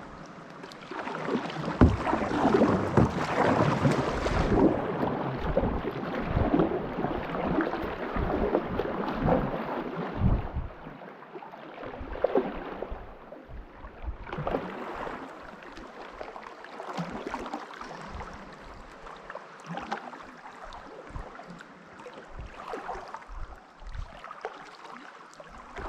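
Kayak paddling on still water inside a large flooded mine chamber: paddle blades dipping and splashing in an irregular rhythm, with occasional knocks of paddle on hull. The strokes are heaviest in the first ten seconds or so and lighter after that.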